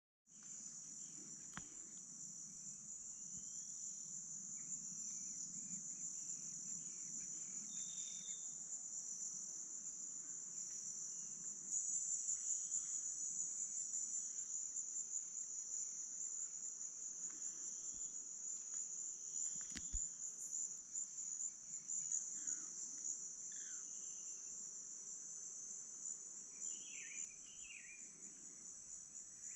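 Amazon rainforest insect chorus: a steady, high-pitched buzzing drone, a little louder from about twelve seconds in, with faint, scattered short bird calls and one sharp click near the end.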